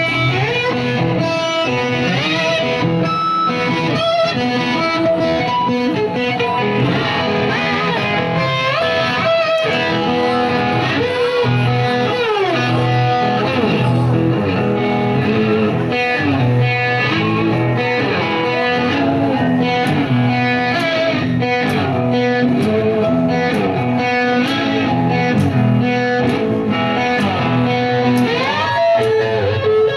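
Live rock band playing an instrumental passage: electric guitar leads over bass and drums, with notes that bend and slide in pitch.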